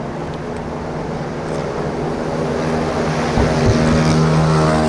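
Distant aerial fireworks bursting, with two low booms about three and a half seconds in, over a steady drone of several held tones that grows louder.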